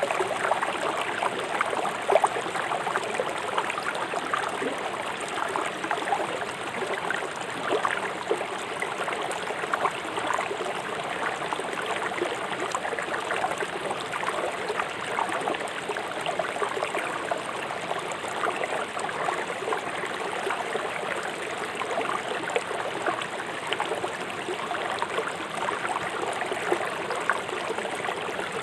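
River water flowing fast over rocks, a steady rushing and splashing with constant small gurgles.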